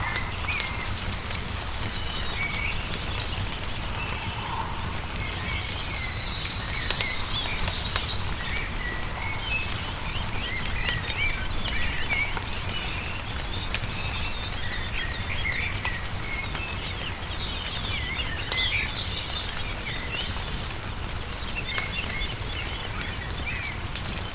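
Many small songbirds chirping and trilling over the crackle and pop of a wood fire, with a steady low rumble underneath.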